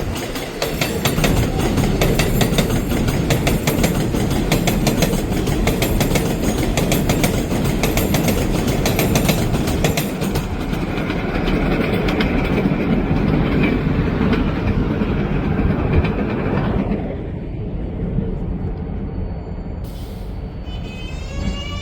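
New York City subway 7 train (R188 cars) running through on elevated track, its wheels clattering rapidly over the rail joints, the clatter easing about halfway through and dropping off sharply about three-quarters of the way in. Near the end, a stepped rising electric motor whine starts as a train accelerates.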